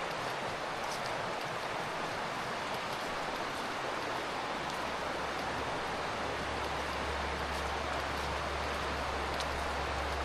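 Steady rush of fast-flowing water in the Curueño river, with a low rumble building from about six seconds in.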